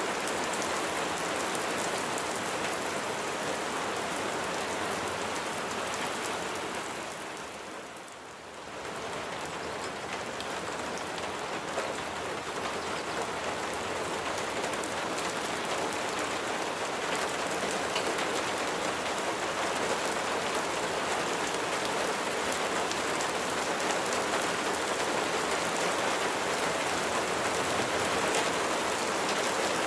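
Steady, dense rainfall pattering, which briefly fades down and comes back up about eight seconds in.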